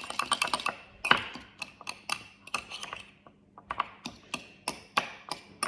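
Fork clicking and scraping against a bowl in quick, irregular strokes while mashing hard-boiled eggs, with a short pause past the middle.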